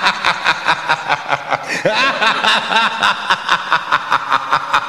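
Snickering laughter over a fast, steady beat of about five strokes a second.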